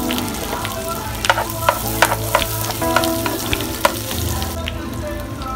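Pieces of leftover roast pig, with chopped garlic and shallots, sizzling in hot oil in a nonstick frying pan, with sharp spitting pops and a silicone spatula stirring them. The hiss dies down somewhat near the end.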